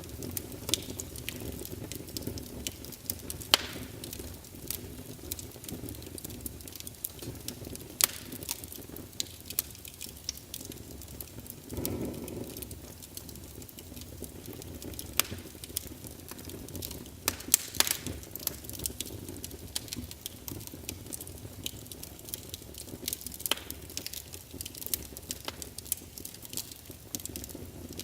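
Firewood crackling in a fireplace: irregular sharp snaps and pops over a steady low rush of the flames, with a brief swell of the flames about twelve seconds in.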